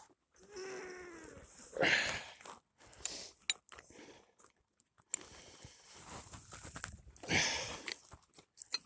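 A cat meows once, a drawn-out call about half a second in, followed by scattered knocks and scraping.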